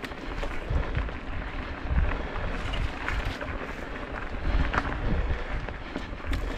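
Wind buffeting the microphone and knocks and rattles from riding a fat-tyre bike over a rough forest trail.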